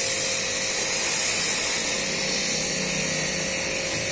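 Portable electric pressure washer running steadily: a constant motor whine under a loud hiss of spray.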